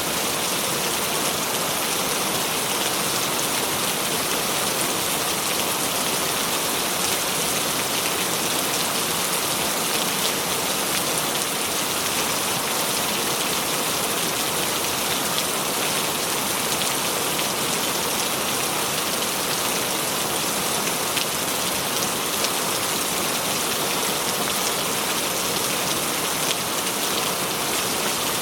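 Steady rain: an even hiss of falling rain with many small ticks of drops striking a surface.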